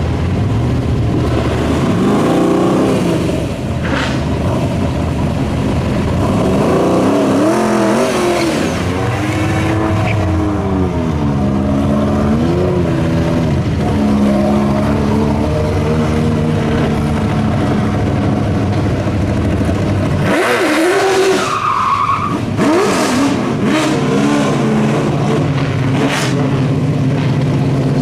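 Racing car engine revving, its pitch swinging up and down over and over, with a brief higher squeal about two-thirds of the way through; near the end the engine settles to a steadier note.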